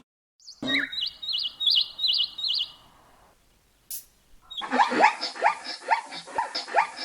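A bird gives a short run of about five quick, wavering high chirps. After a brief pause and a click, a new animal starts a series of short rising squeals, about three a second.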